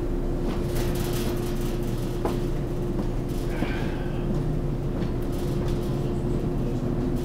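Running noise inside the cabin of a JNR-type resistor-controlled electric train, believed to be a 413 series: a steady rumble of wheels on rails with a constant hum, and a few light clicks and rattles.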